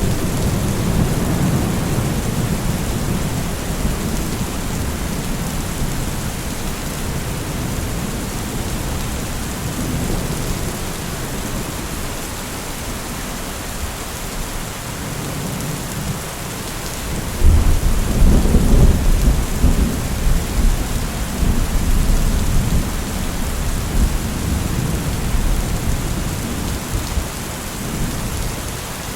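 Steady rain falling, with low rolling thunder. A louder peal of thunder breaks in just past the middle and rumbles away over several seconds.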